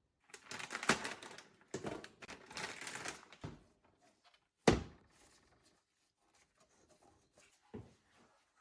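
Objects being handled: about three seconds of rustling and clattering, then a single sharp knock, followed by a few faint taps.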